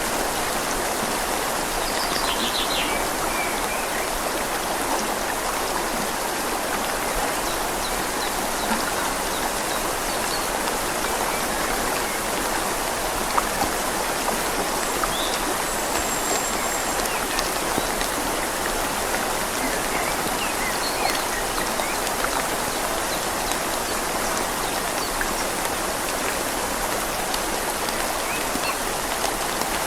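Steady rain falling on leaves together with a flowing river: an even, unbroken hiss of water throughout.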